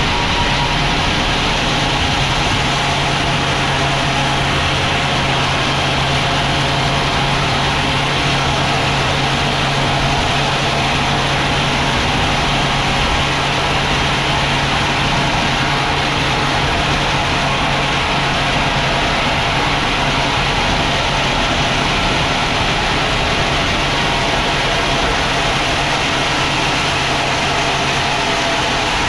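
Sawmill machinery running steadily: a continuous engine-like drone with a constant hum and no breaks or changes.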